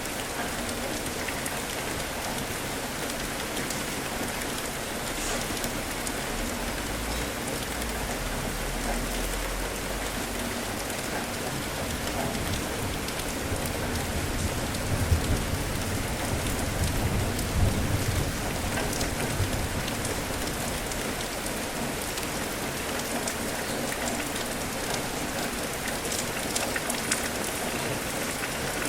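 Steady rain falling and pattering on surfaces, with low distant rumbles of thunder building twice, the louder one about halfway through.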